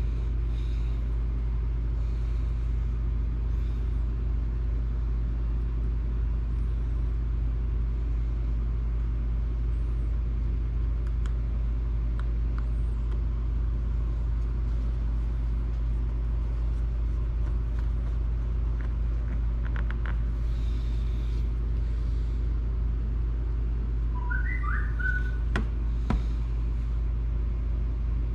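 Steady low background hum, with a few faint light clicks of small plastic parts and screws being handled.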